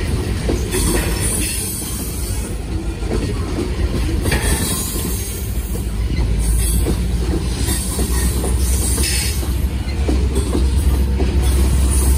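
Gravel train's gondola cars rolling past on the rails, with steady wheel noise and squealing at times. A deep diesel rumble from the train's rear pair of BNSF locomotives grows louder from about two-thirds of the way in as they approach.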